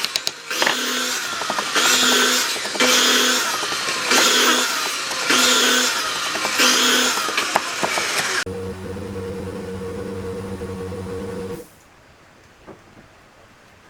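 Electric power tool working wood in about six repeated passes of roughly a second each. It then runs unloaded with a steady hum for about three seconds and switches off.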